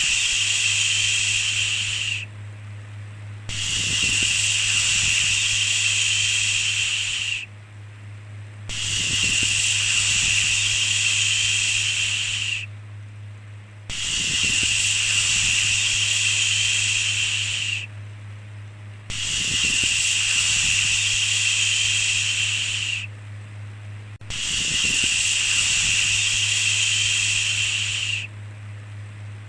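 Long 'shhh' shushing hisses, repeated about every five seconds: each lasts about four seconds, followed by a pause of about a second. A steady low hum runs underneath.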